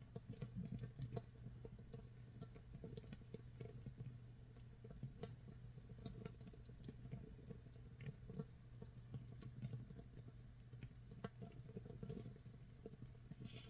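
Makgeolli starter mash (mitsul) fermenting in a jar about 24 hours in: a faint, continuous crackle of many small irregular pops and ticks, like light rain or rice crust toasting, as the active fermentation bubbles away.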